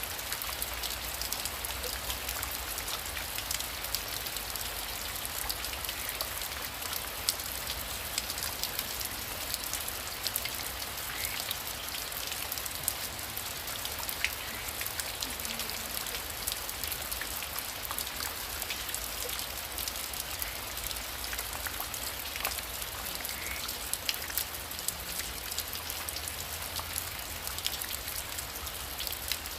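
Heavy rain falling steadily, a dense patter of individual drops ticking over a continuous hiss.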